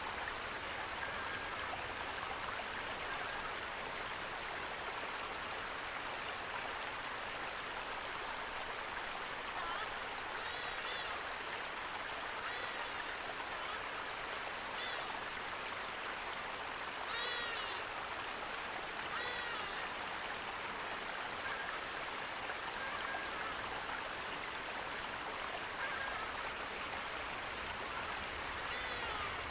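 Steady rush of running water from a stream or small waterfall, with short bird calls now and then over it.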